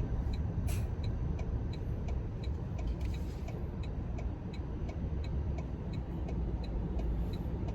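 Turn-signal indicator of a Toyota Tundra ticking steadily, about three clicks a second, over the low road and engine rumble inside the truck's cabin as it turns around.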